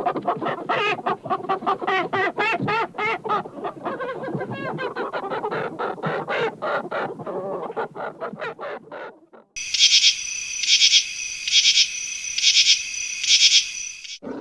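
A flock of birds, likely fowl, calling rapidly over one another with many short calls a second. About nine and a half seconds in, this cuts to a steady high-pitched buzzing that swells about once a second.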